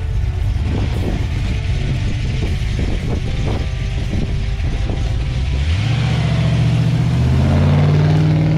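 Ford 351 Windsor V8, fitted with a Lunati Voodoo cam, Holley carburettor and headers, idling with a choppy beat, then revved up about six seconds in, rising in pitch and holding higher near the end.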